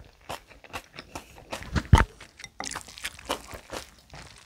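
Close-miked chewing of a mouthful of bibimbap: a run of short wet mouth clicks and crackles, with one louder low thump about two seconds in.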